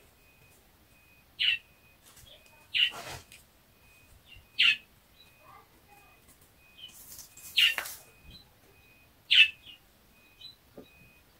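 A bird chirping: five short, sharp chirps spaced irregularly a second or two apart.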